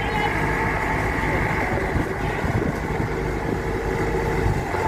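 Kubota DC-93 combine harvester's diesel engine running steadily, with the even drone of the machine working.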